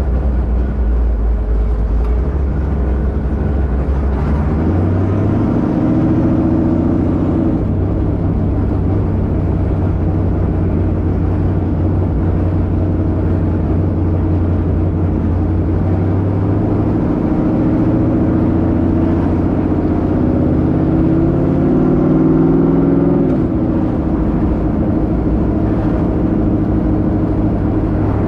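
1972 Plymouth Duster's 408 cubic-inch V8 running on the road. Its note climbs in pitch twice as it pulls, about five seconds in and again from about sixteen seconds, and drops back sharply each time.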